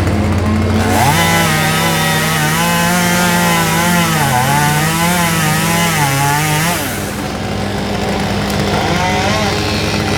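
Chainsaw cutting through tree limbs for about six seconds: its pitch wavers and dips as the chain bites into the wood, then it stops about seven seconds in, and a fainter saw starts near the end. A steady engine hum runs underneath.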